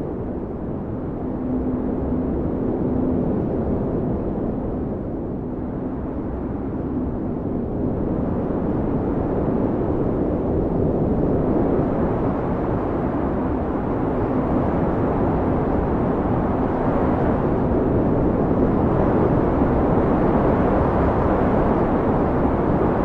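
Blizzard wind blowing steadily in gusts, a deep rushing noise with a faint low howling tone drifting in and out, easing a little early on and then building gradually stronger.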